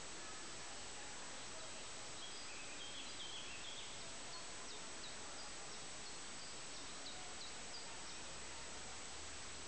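Steady background hiss with faint, short bird chirps repeating from about two seconds in until near the end.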